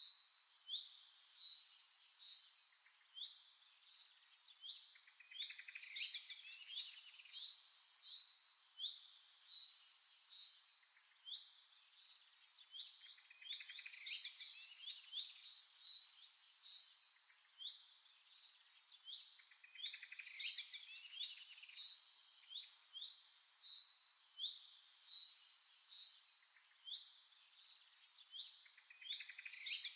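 Small birds singing and chirping, many quick high chirps in phrases that swell and fade every few seconds.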